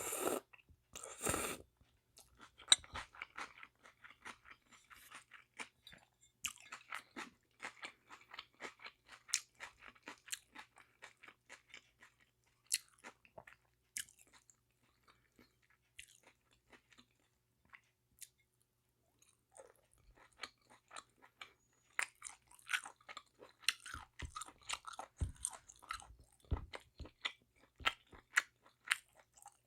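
Close-miked chewing of spicy sea snail bibim noodles: many short wet clicks and smacks of the mouth, with a short noisy burst right at the start. The chewing thins to near quiet for a few seconds in the middle, then picks up again.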